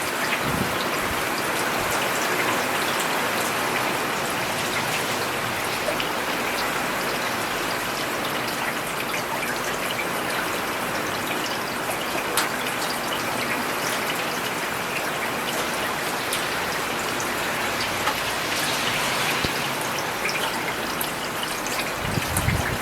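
Steady rain falling on a paved urban road, an even hiss with scattered sharp drop impacts. A low rumble swells briefly near the end.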